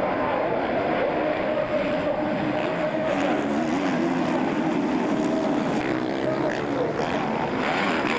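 Motocross bike engines running at race speed, their pitch rising and falling throughout.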